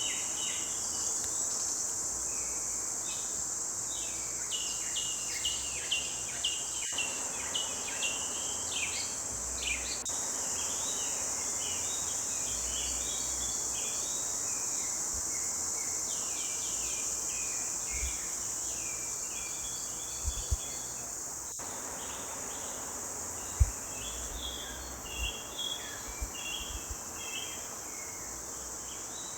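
Forest birds chirping and trilling in quick short phrases over a steady, high-pitched insect drone. A few brief low thumps come in the second half, the sharpest near the end.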